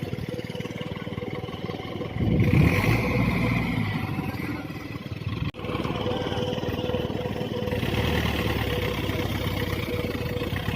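Tractor diesel engine running, louder for a second or two about two seconds in, with a brief sharp drop about halfway through.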